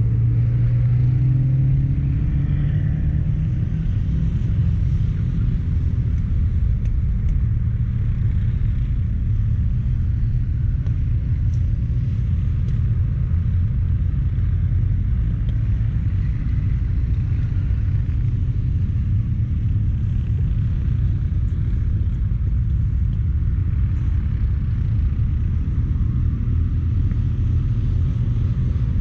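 Low, steady rumble inside a 1999 turbocharged Mazda Miata on the move. A clear engine tone in the first two seconds fades into the rumble.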